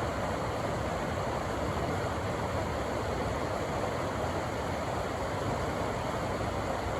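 Rushing river water, a steady churning rush with no breaks or single splashes.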